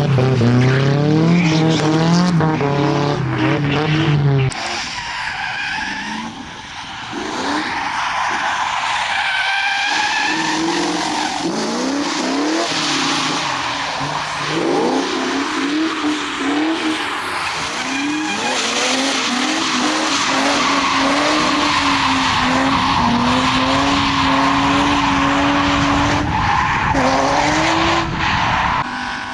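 Drift cars' engines revving hard, the pitch climbing and dropping with throttle and gear changes, over a steady hiss of tyres sliding on a wet track. A sudden cut about four and a half seconds in switches to another, less close car.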